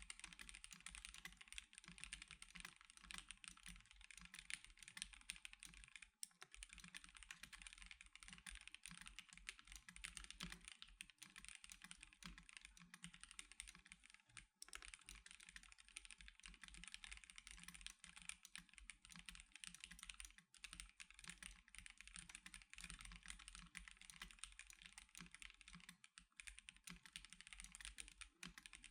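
Continuous fast typing on an Ikki Aurora R2 custom mechanical keyboard with C³Equalz x TKC Banana Split linear switches and DSA-profile keycaps: a dense run of keystroke clacks, broken by brief pauses a few times.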